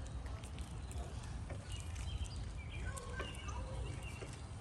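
Birds calling in short, high chirps, several of them bunched together past the middle, over a steady low rumble.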